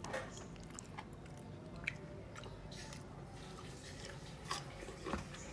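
Close-up eating sounds: chewing and crisp bites with scattered soft clicks, the sharpest about two seconds in.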